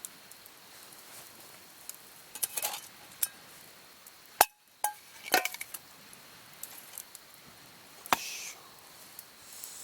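Small hard objects clinking and knocking as they are handled, with short bits of rustling in between; two sharp knocks stand out, one a little over four seconds in and one about eight seconds in.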